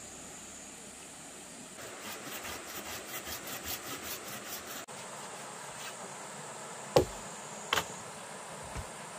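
A steady high insect drone. Over it, a run of quick rhythmic strokes, about five a second for some three seconds, then two sharp knocks about a second apart, the first the loudest.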